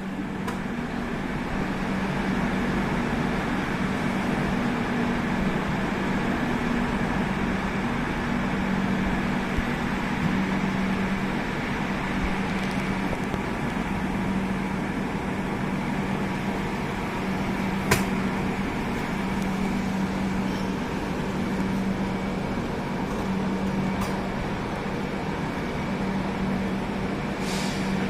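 Steady machine hum of a train standing at the platform, with a low tone that swells and fades every couple of seconds. A single sharp click comes about eighteen seconds in.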